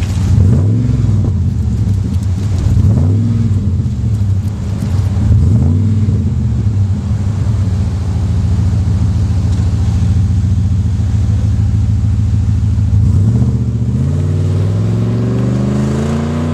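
Dodge Dakota 4.7L V8 with a Magnaflow muffler and dumps ahead of the rear axle, idling and being revved: three quick blips in the first six seconds, a steady idle, then a longer rev that climbs for about three seconds near the end before falling back.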